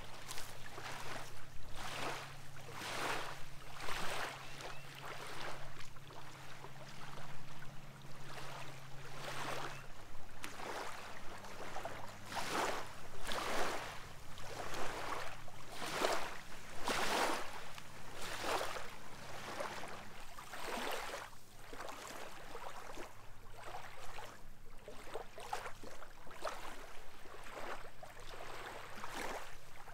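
Footsteps on a dirt trail at a steady walking pace, a little over one step a second, over a faint steady low hum.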